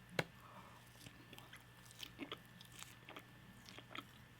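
Faint chewing and biting of food, close up, with scattered small mouth clicks; the sharpest click comes just after the start.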